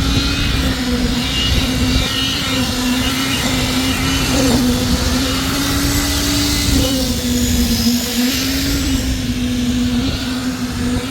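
A machine motor runs steadily with a low hum whose pitch wavers slightly, over a continuous hiss.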